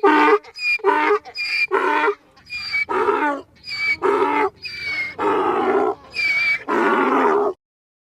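A donkey braying: a long run of alternating hee-haw calls, high and low notes in turn, that cuts off suddenly near the end.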